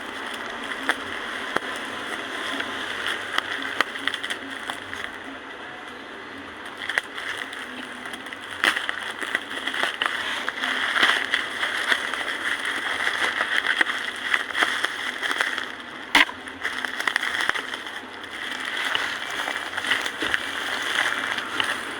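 Packaging being handled and opened: rustling and crinkling with many small clicks and crackles, one sharper crackle about two-thirds of the way through.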